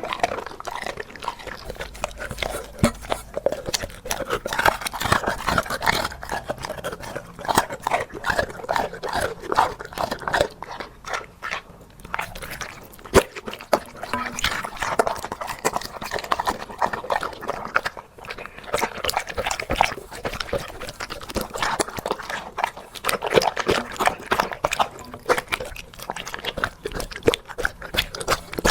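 A puppy eating mutton and mushroom soup close to the microphone: a fast, irregular run of wet lapping, slurping and chewing.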